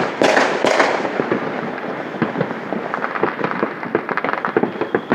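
Many fireworks going off at once: a rapid run of loud bangs in the first second, then a steady crackle of pops and reports.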